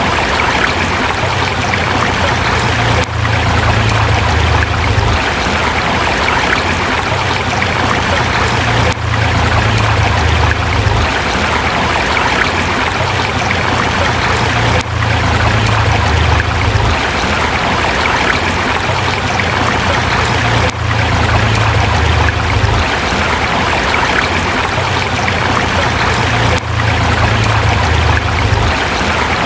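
River flowing over rocks: a steady, full rush of water, with a brief dip in level about every six seconds.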